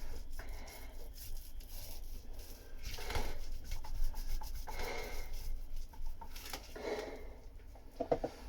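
Resin-wet fibreglass cloth being rubbed and pressed against the underside of a boat deck, in soft rubbing strokes every second or two.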